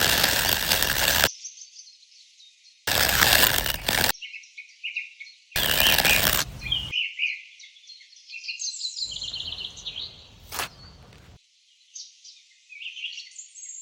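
Birds chirping continuously. Three loud, harsh bursts of noise, each a little over a second long, break in during the first seven seconds, and a fainter noisy stretch follows around ten seconds in.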